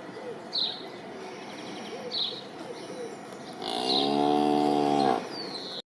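A cow mooing once, a long low call of about a second and a half starting a little past halfway, with brief bird chirps now and then in the background.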